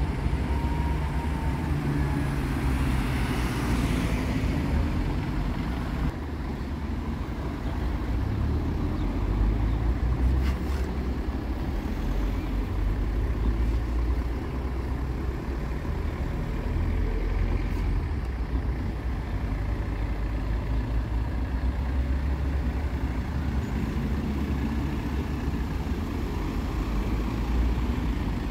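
Road traffic: cars and trucks driving past with a steady low engine rumble and tyre noise. One vehicle passes close about four seconds in.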